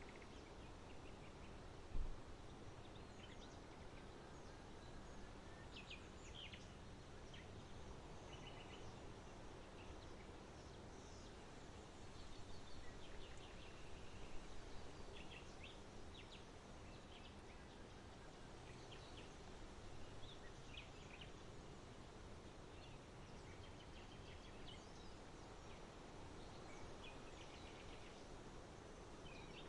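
Faint outdoor ambience: small birds chirping in short, scattered calls over a steady low background noise. There is a single low thump about two seconds in, and the background swells a little for a few seconds near the middle.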